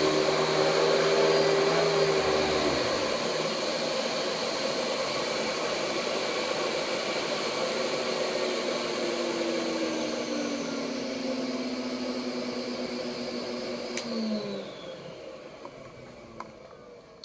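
Hoover Spectrum 960 vacuum cleaner running with a steady motor whine and airflow hiss; a lower hum drops out about three seconds in. Near the end a click, then the motor winds down as it is switched off.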